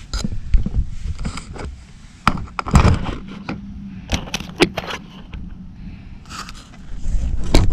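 Metal tools and engine parts being handled: a run of irregular clinks and knocks with scraping in between, loudest about three seconds in.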